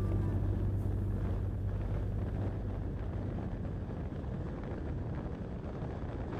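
Steady road and wind noise from a vehicle driving on a highway, with wind rumbling on the microphone. Background music fades out in the first half second.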